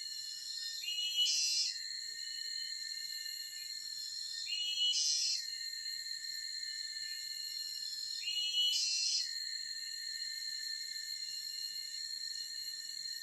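A steady, high-pitched chorus of forest insects such as crickets. Over it, a louder call about a second long comes three times, every three to four seconds.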